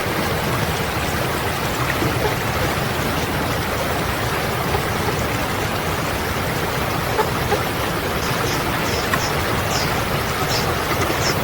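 Steady rushing noise like running water. About eight seconds in come a few faint, short, high-pitched bird calls, seven or eight thin notes over about three seconds.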